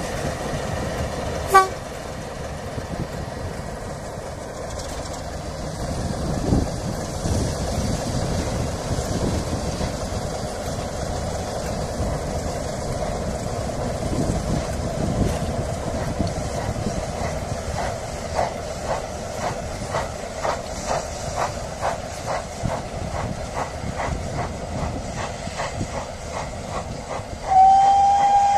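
A heritage passenger train running away along the line, top-and-tailed by a Class 33 Crompton diesel and a GWR pannier tank steam locomotive. There is a steady engine drone, with an even beat of roughly two a second in the second half, and a single long whistle on one note near the end.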